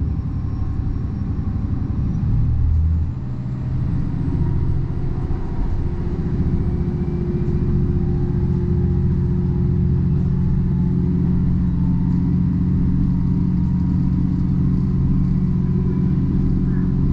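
Diesel railcar's engine and running noise heard from inside the passenger cabin: a steady low drone that dips briefly about three seconds in, then runs evenly.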